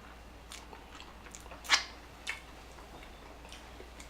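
Close-miked chewing, with a few short, sharp mouth clicks. The loudest click comes a little before halfway, and a smaller one follows about half a second later.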